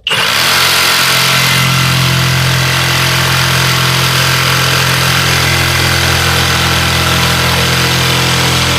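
Jigsaw fitted with a 75 mm wood blade starting abruptly and running steadily, cutting through a wooden worktop and melamine board.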